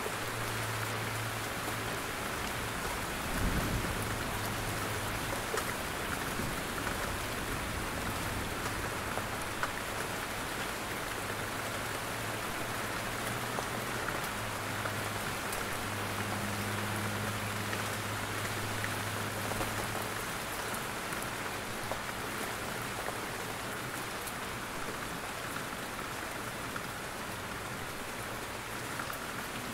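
Steady rain falling in a forest, with drops pattering down from the trees. A low rumble comes and goes underneath, and there is a single soft thump about three and a half seconds in.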